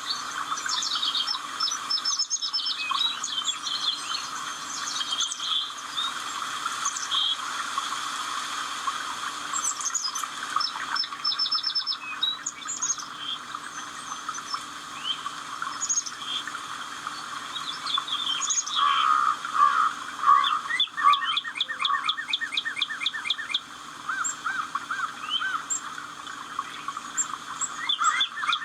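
Many songbirds singing and calling at once: a dense mix of overlapping chirps, whistles and trills. Fast trills come in about two-thirds of the way through.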